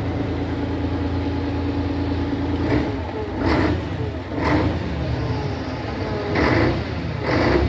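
Scania G-Series concrete pump truck's engine running with a steady hum; about three seconds in the sound changes and a series of loud surges follows, roughly one every second or two.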